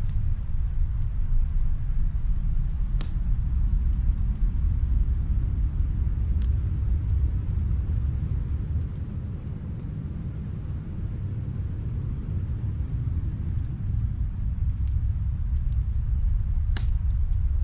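Wood fire crackling in a fireplace, a few sparse sharp pops over a steady low rumble.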